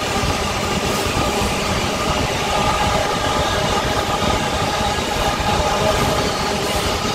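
Freight train's wagons rolling past on the rails: a steady, loud rumble with several held high tones above it.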